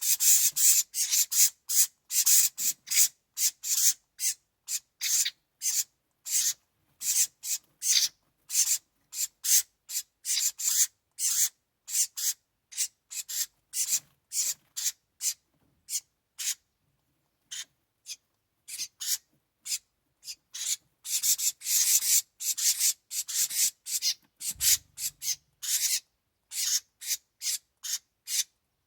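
House wren nestlings giving raspy, hissing begging calls in quick short bursts, several a second, which pause briefly about halfway through before starting again.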